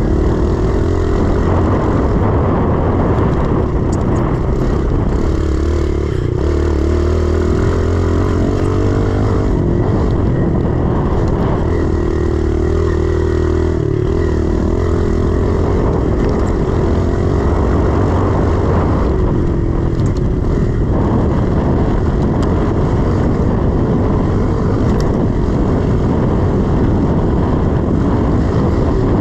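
A 110cc four-stroke single-cylinder pit bike engine running under load while being ridden, its pitch rising and falling steadily as the rider works the throttle.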